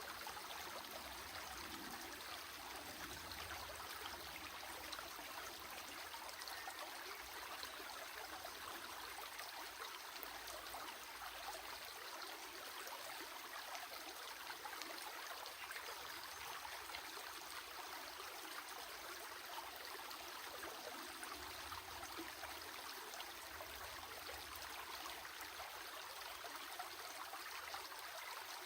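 Stream water flowing and trickling steadily, an even rushing splash with fine crackle and no breaks.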